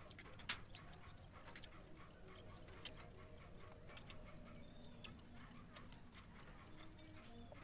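Faint, irregular crunching and wet mouth clicks of someone chewing crispy deep-fried chicken bones, with about a dozen sharp clicks at uneven intervals.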